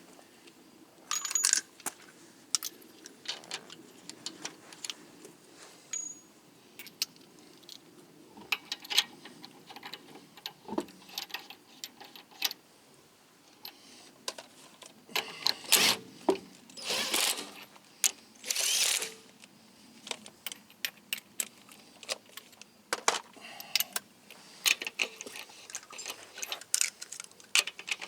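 Loose metal clinking and knocking from hand tools and lug nuts as a car wheel is refitted, irregular clicks throughout with a few louder short rasping bursts about two thirds of the way in.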